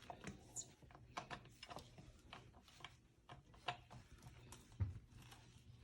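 Faint scattered light clicks and taps, with a soft thump about five seconds in, as a small pet monkey clambers about and handles things.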